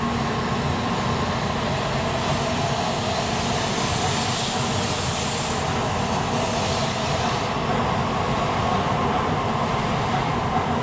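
Shinkansen bullet train moving slowly along a station platform: a steady rumble of the running train with a steady whine held through it, and a hiss that is strongest about four to seven seconds in.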